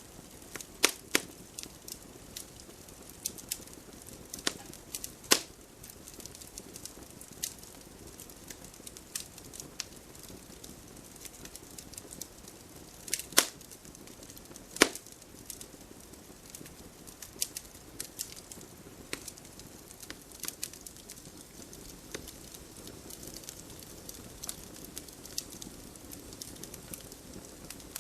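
Wood fire crackling: irregular snaps and pops over a low steady hiss, with two louder pops about 13 and 15 seconds in.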